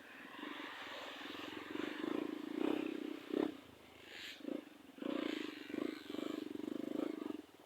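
Trail motorcycle engine revving up and down in repeated surges as the bike works its way up a muddy slope.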